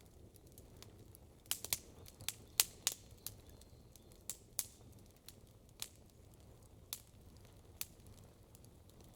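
Wood campfire crackling: sharp pops, a quick cluster of them a couple of seconds in, then single pops scattered about a second apart, over a steady low background hum.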